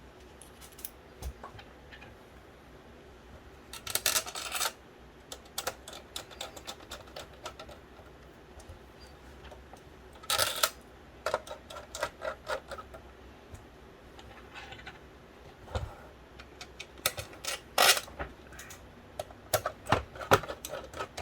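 Small hard plastic and metal parts being handled: irregular clicks, taps and short rattles, with louder clusters about four seconds in, around ten seconds, and a busy run of clicks near the end.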